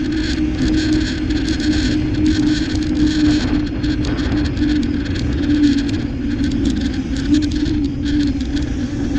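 Steady riding noise on a moving bike: a constant hum with a low rumble and wind rush, plus a fast run of faint ticks, unchanging throughout.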